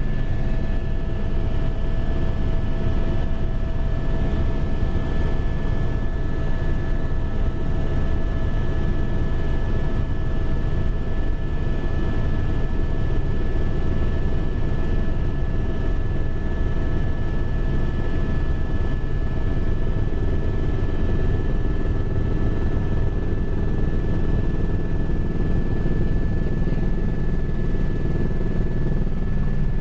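Helicopter in flight, heard from inside the cabin: a steady rotor and engine drone with a constant high whine over it.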